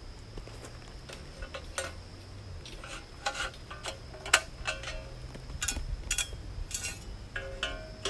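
Metal parts of a steel fire stand clinking and knocking as they are handled, an irregular run of sharp clicks with short metallic ringing that comes more often toward the end.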